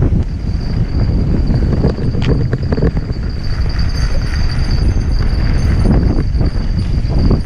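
Mountain bike descending a rough dirt trail: tyres on dirt and the bike rattling and knocking over bumps, over a dense low rumble.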